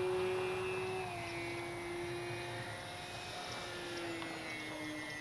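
Electric RC sport plane's brushless motor and propeller whining in flight, the pitch dropping a step about a second in and sliding down again near the end.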